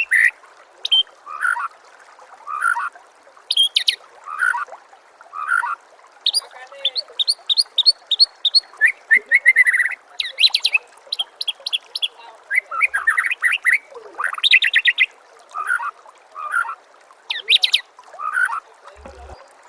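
White-rumped shama (murai batu) singing a varied song of short phrases: fast repeated trills, high whistled notes and downslurred chirps, one after another. A steady hiss runs beneath the song.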